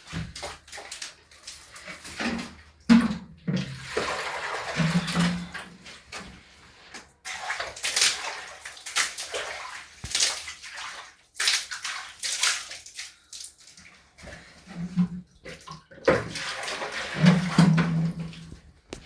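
Water splashing and sloshing in irregular bursts from hand washing with a wet cloth.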